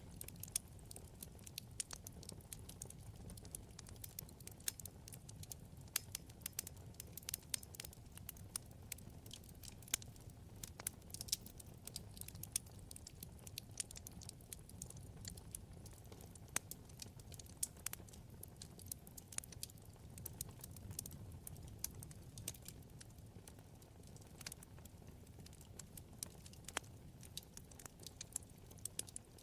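Wood fire burning in a fireplace: a soft low rumble of flames with many small, irregular crackles and pops from the burning logs.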